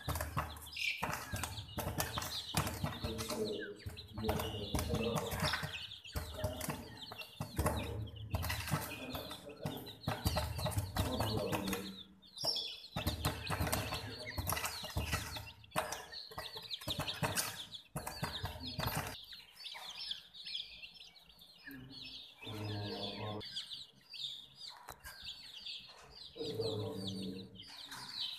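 A group of baby chicks chirping over and over, high and busy, mixed with many small clicks and scuffles. A low rumble sits under the first two-thirds and then drops away.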